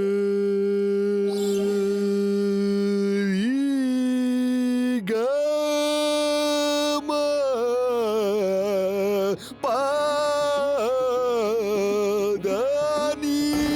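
A voice singing a drawn-out wordless melody in an Indian classical style: a long held note at the start, then sliding, ornamented phrases broken by brief pauses.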